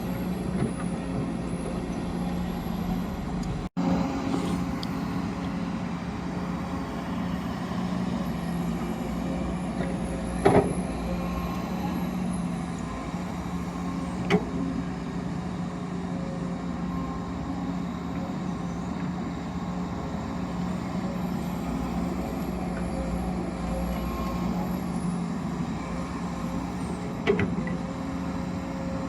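Heavy vehicle engine running steadily, with three short knocks, the loudest about a third of the way through.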